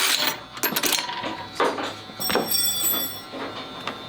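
Metal clinks, scrapes and rattles of hand tools against the loosened head bolts and cylinder head of a small engine being taken apart. About two seconds in, a short high metallic ring is heard.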